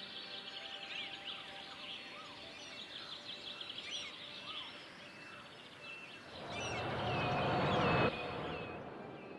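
Many small birds chirping with quick, high calls over a steady outdoor background. About six seconds in, a broad rush of noise swells for a couple of seconds and then cuts off abruptly.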